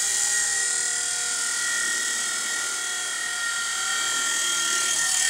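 V911 micro RC helicopter's small electric motors and rotors whining steadily at a high pitch in flight.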